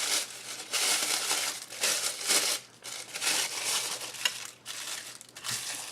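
Tissue paper being crumpled by hand, in repeated crinkling bursts, with a sharp click about four seconds in.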